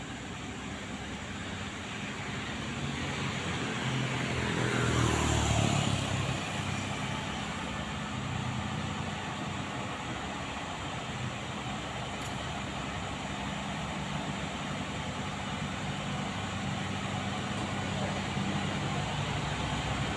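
Roadside traffic: a vehicle passes close by about five seconds in, its sound falling in pitch as it goes by. Steady low engine running follows.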